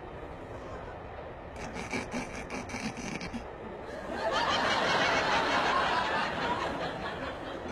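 Studio audience laughter, swelling loudly about halfway through, after a stretch of rapid clicking.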